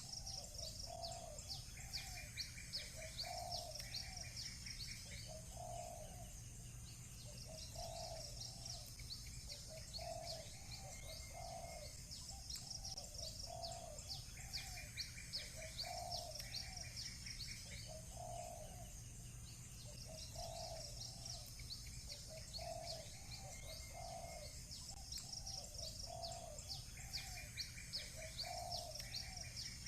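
Doves cooing over and over, roughly one coo a second, while small birds sing recurring phrases of high chirps every few seconds, with a steady low hum underneath.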